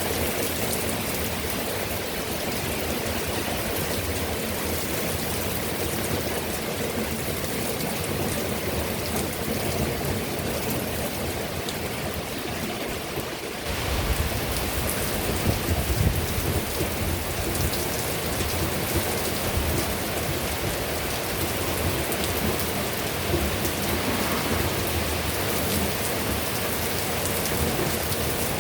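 Heavy rain pouring steadily. About halfway through, a low rumble of thunder sets in and rolls on, loudest a couple of seconds after it starts.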